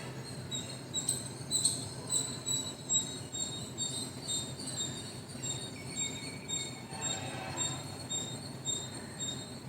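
Early morning birds chirping: a rapid run of short high chirps repeating throughout, with a held whistled note and a lower call from another bird past the middle, over a low steady background hum.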